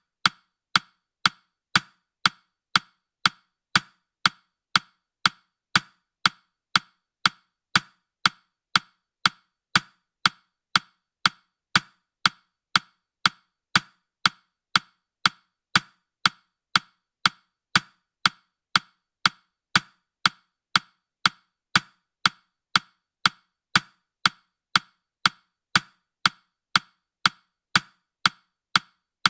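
Clock-style ticking sound effect of a countdown timer: short, sharp woody ticks about two a second, perfectly even.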